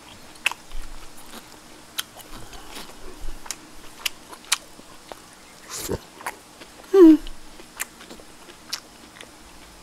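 A person chewing and eating food close to the microphone, with irregular wet mouth clicks and smacks. About seven seconds in there is a brief falling hum from the eater.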